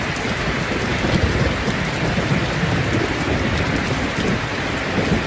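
Steady heavy rain falling, with a low rolling rumble of distant thunder underneath.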